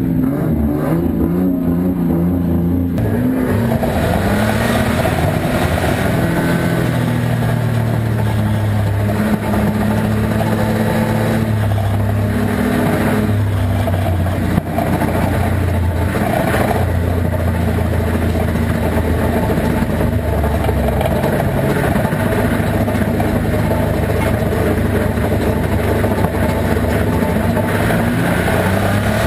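A Volvo estate banger racing car's engine, heard from inside its stripped-out cabin, idling for about three seconds, then picking up as the car pulls away and running on under load with the revs rising and falling.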